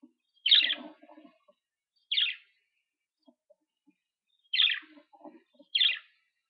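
Budgerigar giving four short, sharp chirps a second or two apart.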